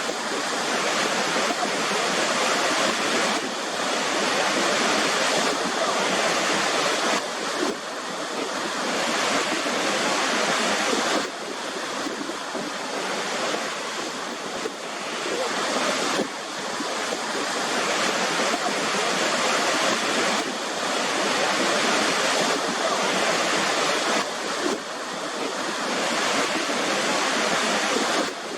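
Waterfall: a steady rush of falling water, with a brief dip in level every four to five seconds.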